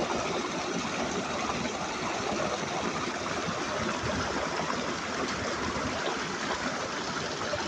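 River water rushing steadily: a continuous, even rush.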